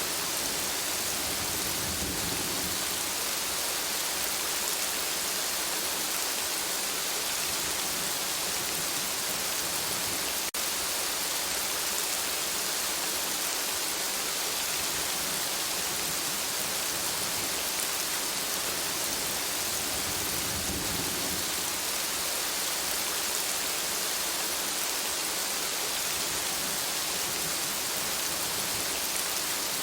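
Steady heavy rain hiss, with two low rumbles of distant thunder, about two seconds in and about two-thirds of the way through. A brief click and dip in the sound come about a third of the way in.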